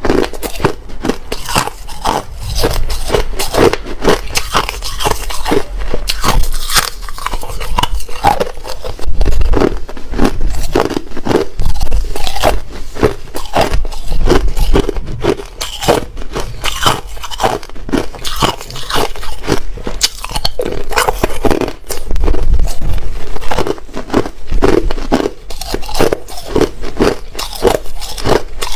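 Hard ice being bitten and chewed close to the microphone: a dense, irregular run of loud, sharp crunches.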